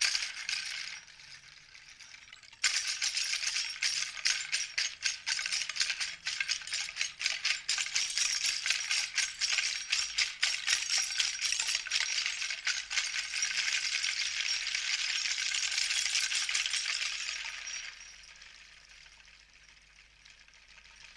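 A Paleolithic-style hand rattle being shaken in a dense run of rapid clicking strokes. A short rattle comes first; then shaking starts suddenly about three seconds in, keeps up for about fifteen seconds, and fades out near the end.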